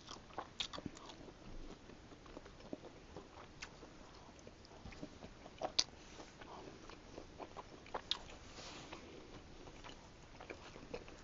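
A person chewing food close to the microphone: faint wet mouth sounds with scattered soft clicks, the sharpest just before the middle and again a little later.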